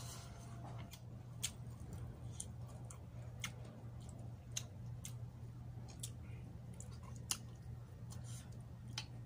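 Close-miked chewing of chicken adobo, with sharp wet mouth clicks and smacks about once a second. A steady low hum runs underneath.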